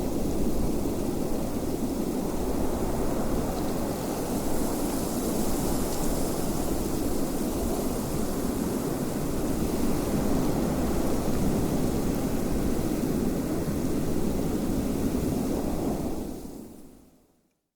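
Steady wind blowing, a dense rushing noise that fades out to silence near the end.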